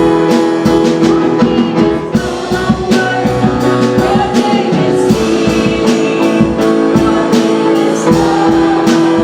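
Live worship band playing a song with guitar and drum kit keeping a steady beat, with singing over it.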